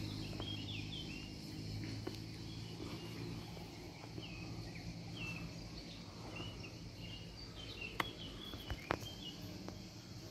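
Small birds chirping: short, high, hooked notes scattered throughout, over a low steady hum. Two sharp clicks sound near the end.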